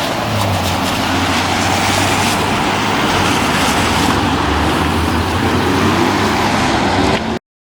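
Road traffic noise: a steady rumble of passing vehicles, which cuts off suddenly near the end.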